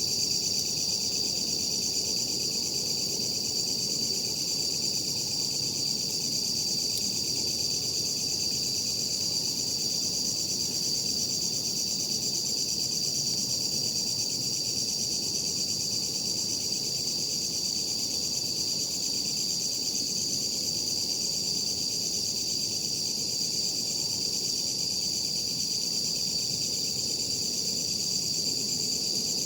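Night insects chirring in a steady, unbroken high-pitched drone, over a soft low background hiss.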